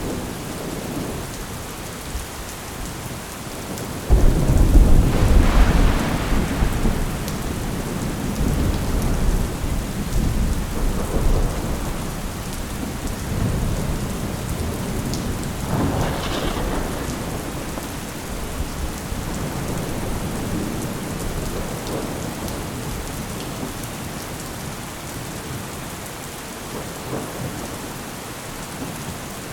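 Thunderstorm: steady rain falling, with a sudden clap of thunder about four seconds in that rumbles on for several seconds, and a second, weaker rumble of thunder a little past the middle.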